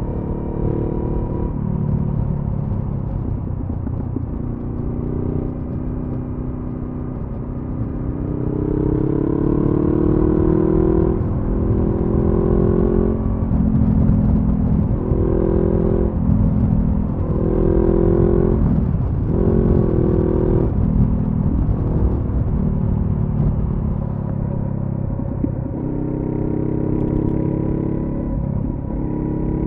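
2014 Honda CB500F parallel-twin engine through a Delkevic carbon-fibre slip-on exhaust, heard from on the bike with low wind rumble. The engine pitch rises and drops back several times from about a third of the way in as the bike accelerates through the gears, then runs steadier and climbs again near the end.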